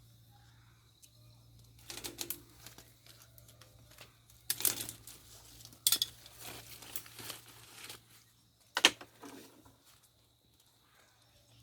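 Rustling and crinkling noises in several short, sharp bursts, the loudest about halfway through and again near nine seconds in, over a faint steady low hum.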